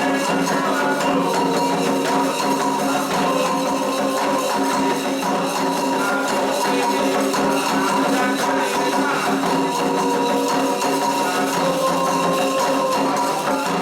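Candomblé ritual music: a group singing a chant for Xangô over steady, fast hand percussion.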